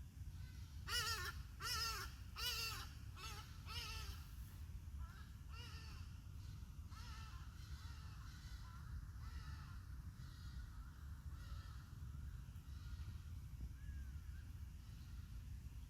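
A bird calling repeatedly: five loud calls in quick succession in the first few seconds, then fainter calls through the rest, over a steady low rumble.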